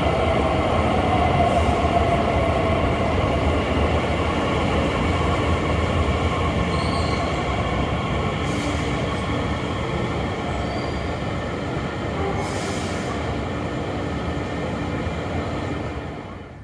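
Bombardier Talent 2 electric multiple unit running into an underground station and slowing, a steady rolling rumble with a faint whine that sinks a little in pitch in the first few seconds, the noise easing gradually. The sound drops away suddenly near the end.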